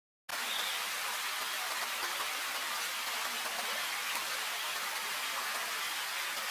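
Steady, even hiss like heavy rain, starting abruptly just after the start out of total silence.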